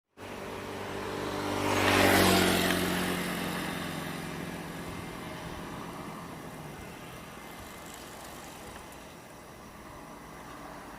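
A heavy truck's engine running as it drives past close by, loudest about two seconds in, then fading away as it moves off.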